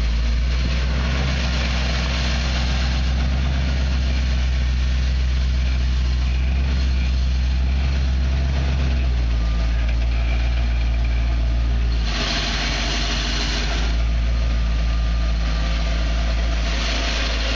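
Off-road vehicle's engine running slowly at near idle. The note shifts about twelve seconds in, and a hiss comes in twice near the end.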